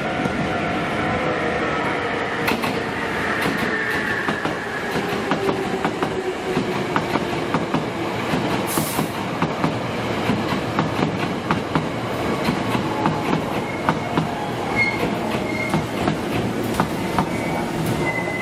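Hankyu electric train moving slowly at the platform, a motor whine falling in pitch as it slows, with the wheels clicking and clacking over rail joints and points.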